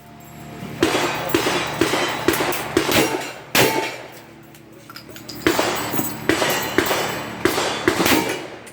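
Gunshots fired in quick strings, mixed with the clang of steel targets being hit, during a timed run that was scored clean with no misses. A single louder shot comes between the two strings.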